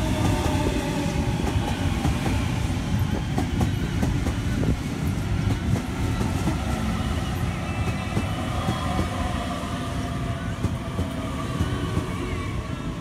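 Sydney Trains double-deck electric train rolling past the platform: a steady rumble with wheels clicking over the rail joints and a faint electric motor whine.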